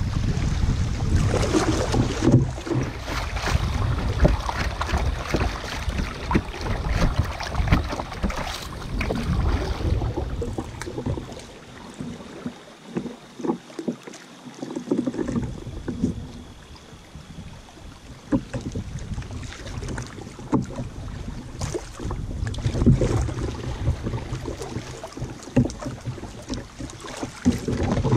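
Kayak paddling on a river: paddle blades dipping and splashing in the water, with wind buffeting the microphone. It goes quieter for a few seconds in the middle, then the paddle strokes pick up again.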